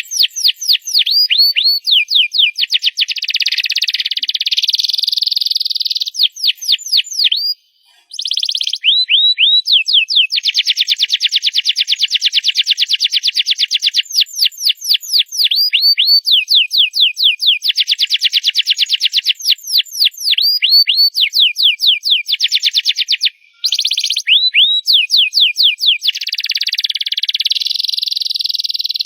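Canary singing loudly in long trills of rapid, repeated falling notes, alternating with stretches of continuous rolling song and broken by two short pauses, about 8 and 23 seconds in.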